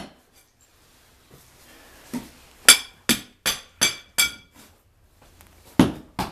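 Hammer blows on fireplace brickwork to work a brick loose: after a pause of about two and a half seconds, a run of five sharp, clinking strikes at about two and a half a second, then two more near the end.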